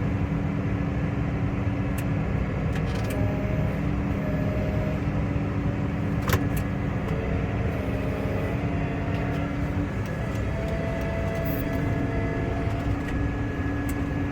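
Case 140 tractor's diesel engine running steadily, heard from inside the cab, with a few light clicks and rattles and one sharper click about six seconds in.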